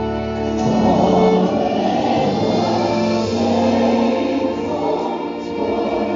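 Gospel worship music between sung lines: keyboard and choir voices holding sustained chords.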